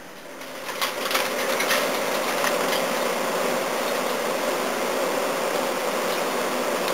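Toshiba air conditioner's fan motor starting up, rising over about a second and a half to a steady whirring run, with a few light clicks at first, now that its disconnected motor and capacitor wires have been reconnected.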